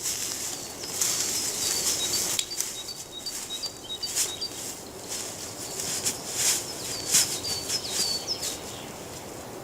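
Small forest birds calling in short, thin, high notes, repeated in two runs, over irregular rustling and crackling and a steady high hiss.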